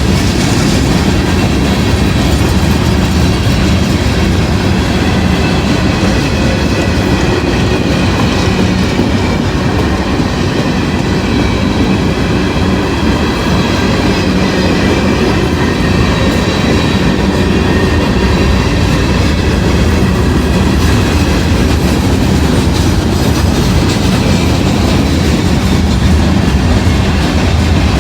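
Southbound CSX freight train rolling past close by: a steady, loud rumble of the cars, with the wheels clicking over the rail joints.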